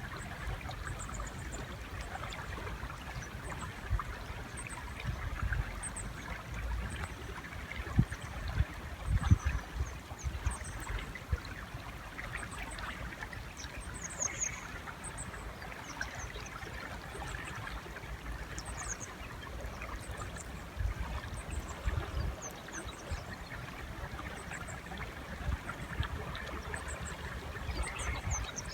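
River water flowing steadily, with faint short high bird chirps scattered throughout and irregular low thumps.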